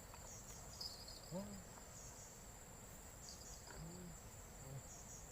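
Faint, steady high-pitched trilling of insects, swelling briefly about a second in and again past three seconds.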